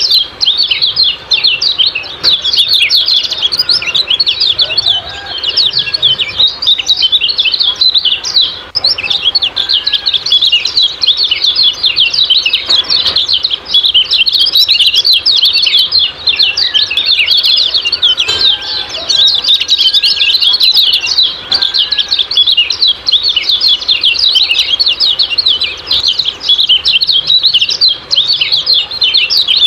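Kecial kuning songbird singing a fast, unbroken twitter of high chirps, the 'ciak-ciak' song, with a few faint lower whistles beneath it.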